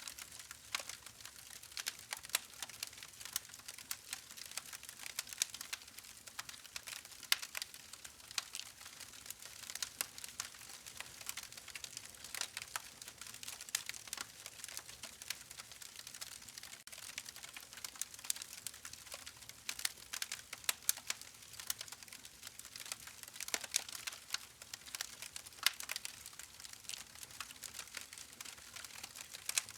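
Campfire burning, with a soft hiss and a constant irregular crackle of small snaps and pops from the burning wood.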